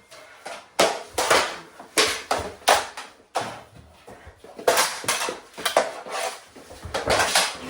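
Plastic mini hockey sticks clacking against each other and the ball during play: a rapid, irregular string of sharp clacks and knocks, a dozen or so, some in quick pairs.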